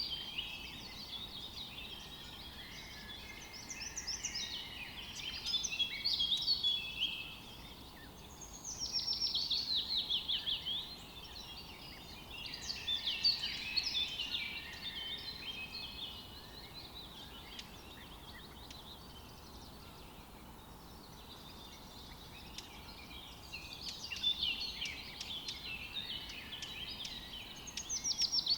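Songbirds singing outdoors in phrases of a few seconds each, one of them a quick run of rapid falling notes, over a faint steady background hiss.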